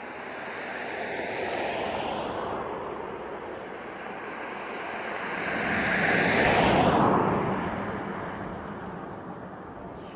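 Aircraft flying past overhead: a rushing roar that swells near two seconds, then builds to a louder peak about seven seconds in and falls in pitch as it passes and fades.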